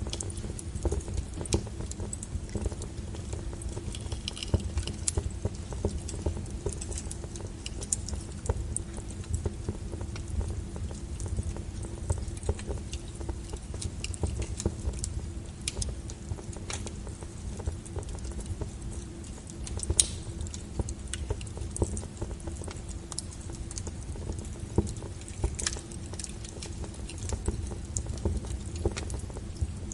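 Wood fire crackling: irregular snaps and pops over a steady low rush of the burning logs, with one sharper pop about twenty seconds in.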